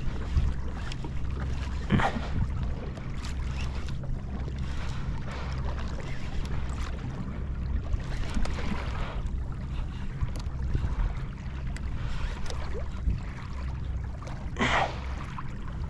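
Water noise around a fishing kayak at sea, with a steady low rumble and wind on the microphone. A louder splash or knock comes about two seconds in, and another near the end.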